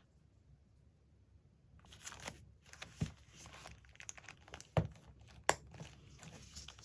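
Paper rustling and crinkling as scrapbook materials are handled, starting after a quiet couple of seconds, with three sharp taps or clicks in the second half.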